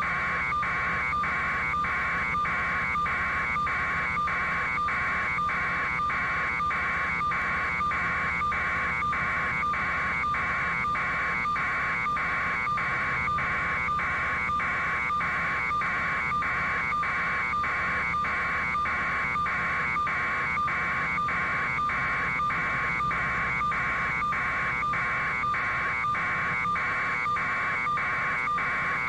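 Electronic warning buzzer sounding a harsh, pulsing tone, about two pulses a second, without a break.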